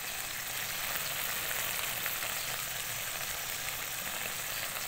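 Mushroom and vegetable stir-fry sizzling steadily in a wok, its sauce bubbling.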